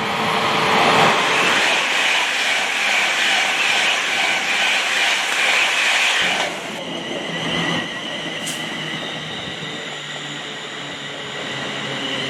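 A train passing close by: a loud rush of wheel and rail noise that drops off suddenly about seven seconds in. A steady high whine remains, with a single click near the middle of it.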